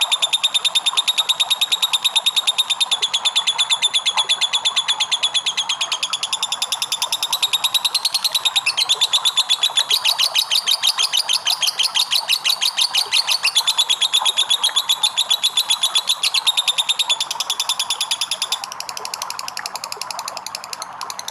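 Lovebird 'ngekek': a long, unbroken chattering trill of rapid high-pitched notes, many a second, going on without a pause and growing softer near the end.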